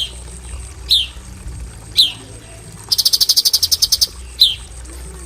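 Cucak cungkok calling in sharp, short down-slurred notes about once a second, with a fast rattling run of about a dozen clipped notes in the middle and one more sharp note after it. A faint steady high insect drone runs underneath.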